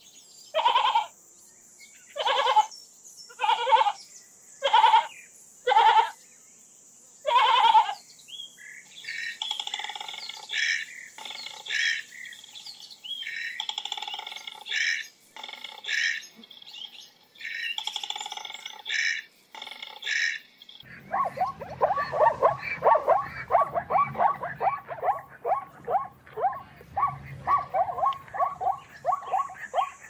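Sheep bleating, about six separate calls a little over a second apart. Then shorter, higher bird chirps, and from about twenty seconds in a dense, fast run of pulsing animal calls over a low hum.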